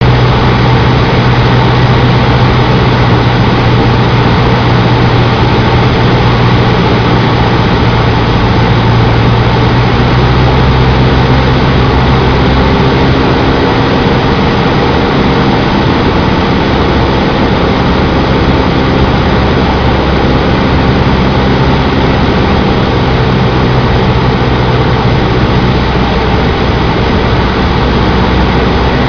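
Cessna 152 Aerobat's four-cylinder piston engine and propeller running steadily and loudly on a landing approach, the engine note shifting slightly about halfway through.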